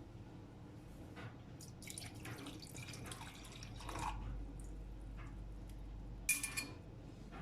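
Faint handling noises with scattered rustles, then one sharp clink that rings briefly about six seconds in, like a glass or dish being set down.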